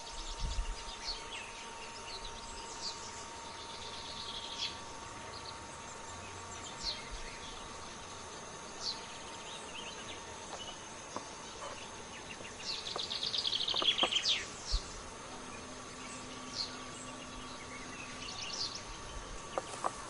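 Wild birds chirping in scattered short high notes, with a louder rapid run of falling chirps about two-thirds of the way through. A faint steady high tone runs underneath.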